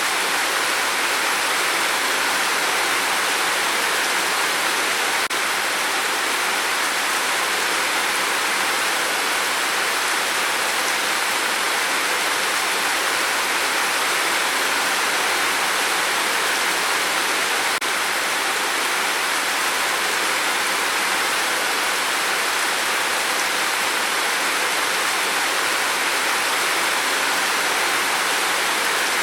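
Steady rain on a tin roof: an even, unbroken hiss with no individual drops standing out.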